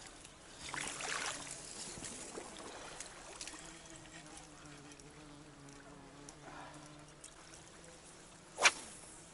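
Small splashes and trickling water in shallow, reedy water, with faint steady buzzing. One short, sharp splash or pop near the end is the loudest sound.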